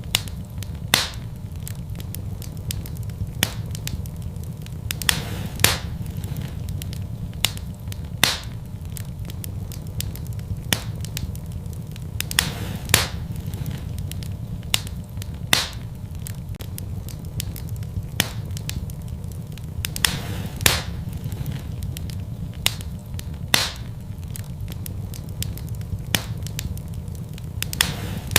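Wood fire burning in a fireplace: a steady low rumble of the flames with sharp, irregular crackles and pops from the burning logs every second or two.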